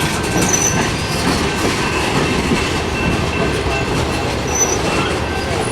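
Freight cars of a long Norfolk Southern mixed freight train rolling past: a steady rumble and rattle of steel wheels on the rails, with a faint high wheel squeal.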